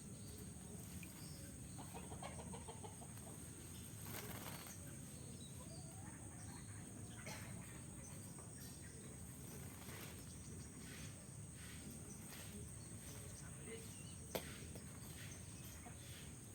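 Oriental magpie-robin bathing in a cage: a few short bursts of splashing and wing-fluttering, with a sharp click near the end.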